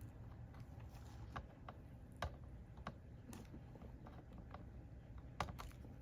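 Scattered light clicks and taps of small hand tools against a circuit board, about seven at irregular spacing, with the two sharpest about two seconds in and near the end.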